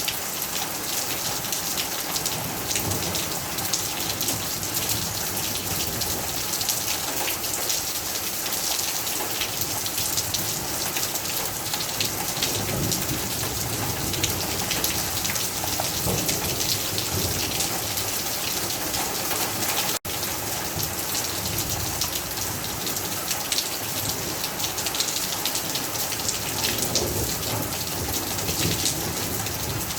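Steady rain falling: an even hiss made of many small drop impacts. It cuts out for a split second about two-thirds of the way through.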